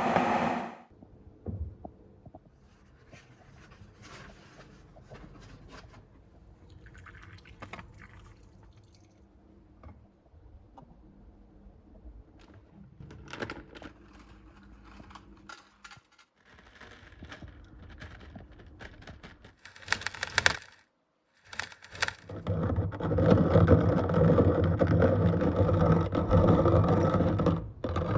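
Quiet workshop handling with scattered clicks and knocks. About twenty seconds in come two short, loud bursts of noise, then from about 23 seconds in a loud, steady rasping rub like filing or sanding a workpiece by hand.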